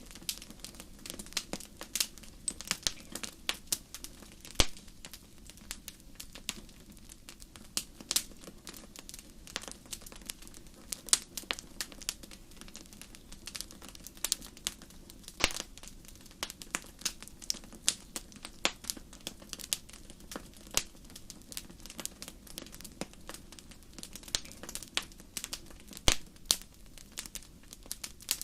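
Wood fire crackling in a fireplace: irregular sharp pops and snaps, a few louder ones standing out, over a faint low steady rumble.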